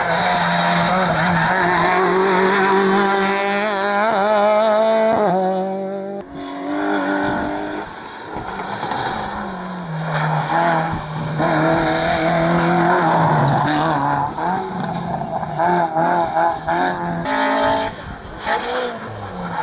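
Rally cars running a tarmac hillclimb stage, their engines revving hard and rising and falling in pitch through gear changes, with a brief break about six seconds in.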